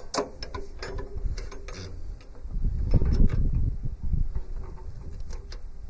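Wrench working a bolt on a tractor's loader/backhoe sub-frame: irregular metallic clicks and knocks with low handling noise, busiest about three seconds in.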